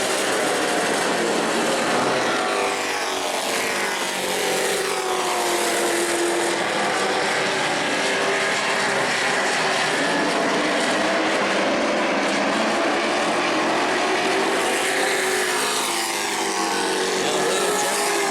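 Engines of a field of race trucks running at speed around an asphalt short track. Several overlapping engine notes rise and fall in pitch as the trucks lap by.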